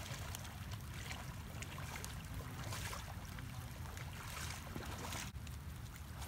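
Wind buffeting the microphone as a steady low rumble, with faint rustling on top.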